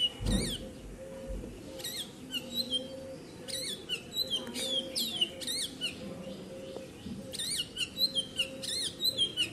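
A bird chirping repeatedly in the background: quick, high, sweeping chirps in small clusters, coming more often in the second half. There is a low thud just at the start.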